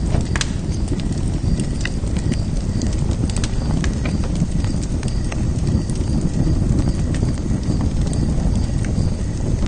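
Wood fire burning in a fire pit: a steady low rumble with irregular sharp crackles and pops, the loudest pop about half a second in.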